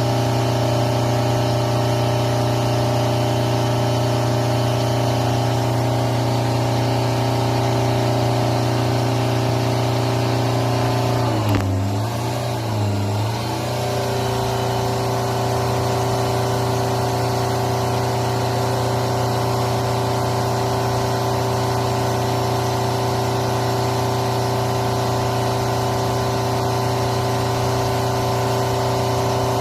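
Car engine held at high revs with the accelerator floored, run hard to burn off soot after a fault that appeared following an oil change. The pitch stays steady, dips twice briefly about twelve seconds in, then holds steady again.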